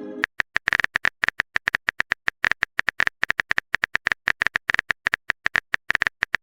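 Phone keyboard typing sound effect: a fast, uneven run of short taps, about ten a second, as a text message is typed out.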